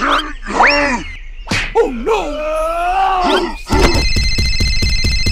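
A gruff voice groaning and yelling with wide swoops in pitch. About four seconds in, a telephone starts ringing, a loud, rapid trilling ring.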